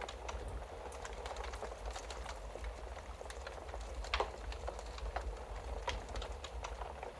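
Wood fire crackling in a fireplace: irregular sharp pops and snaps over a soft hiss and a steady low rumble, with one louder pop about four seconds in.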